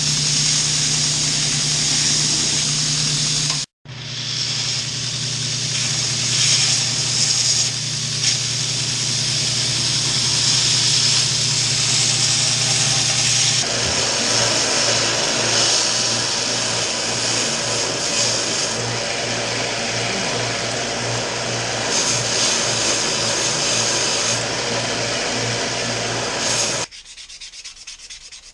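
Power sander, most likely a belt sander, grinding a knife handle of antler with leather and copper spacers to rough shape. It runs steadily with a motor hum under the abrasive hiss. The sound breaks off briefly about four seconds in, changes character about halfway through, and falls away shortly before the end.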